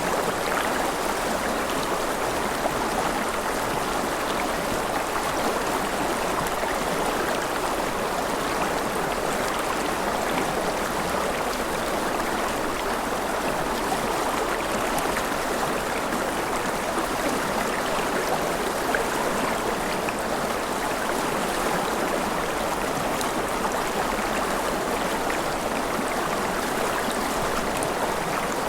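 A river flowing steadily over rocks, a continuous rushing with small splashes and gurgles.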